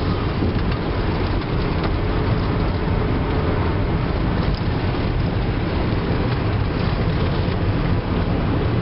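1997 Toyota Avalon driving at speed, heard from inside the cabin: a steady rumble of road and tyre noise with the engine running underneath.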